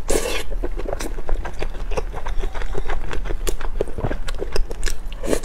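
Close-miked chewing and mouth sounds from eating skewered oden fish cakes: a bite near the start, then a steady run of short clicks and smacks, several a second.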